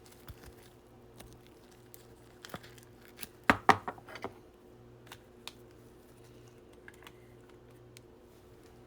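Trading cards and plastic card sleeves being handled on a table: scattered light clicks and rustles, with a brief cluster of sharper taps about three and a half seconds in.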